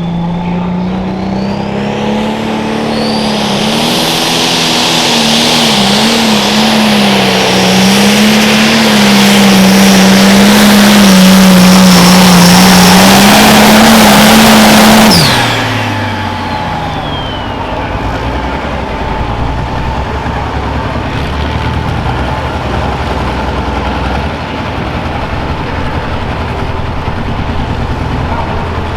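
Turbocharged diesel pro stock pulling tractor under full throttle on a pull. The engine climbs in pitch with a rising turbo whistle, wavers under load, then holds at its loudest. About halfway through the throttle is cut: the engine note drops away, the turbo winds down with a falling whistle, and the engine settles to a lower, quieter run.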